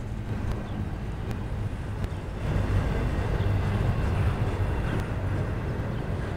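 Double-stack intermodal well cars rolling past: a steady rumble of steel wheels on rail, somewhat louder after about two seconds, with a few faint clicks.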